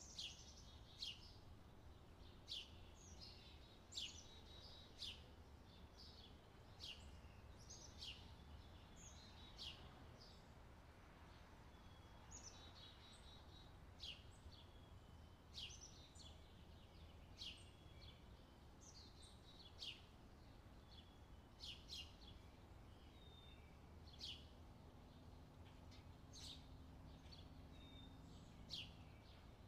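Faint chirping of small birds: short, high, falling chirps about once a second, over a low steady hum.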